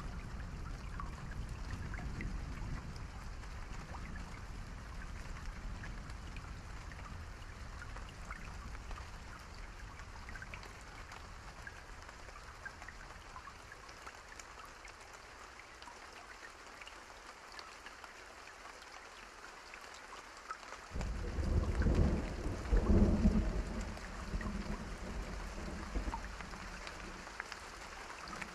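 Steady rain with a campfire crackling. About twenty seconds in, a roll of thunder rumbles loudly for several seconds and fades away.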